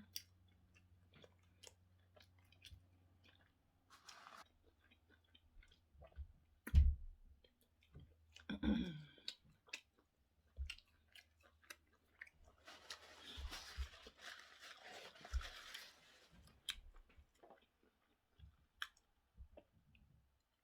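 Close-up chewing and mouth sounds of someone eating plantain with sauce: scattered wet clicks and smacks, a dull thump about seven seconds in, and a longer stretch of noisier chewing and crunching from about twelve to sixteen seconds.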